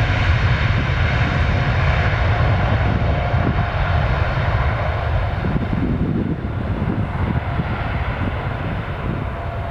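Boeing 777-300ER's twin GE90-115B turbofan engines at takeoff thrust: a loud, steady jet rumble and roar that eases slowly over the last few seconds.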